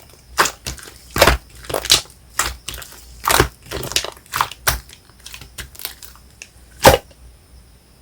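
Hands squishing and pressing a soft marbled slime made with shaving foam, giving a string of sticky pops and crackles about once or twice a second. The loudest pop comes near the end.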